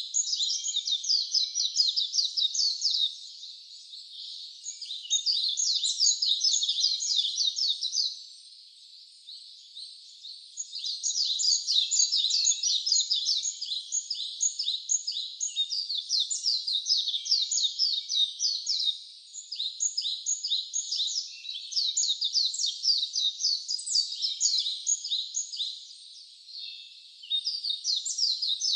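Wild birds chirping in rapid, high-pitched trills that run for several seconds at a time, with brief lulls between runs.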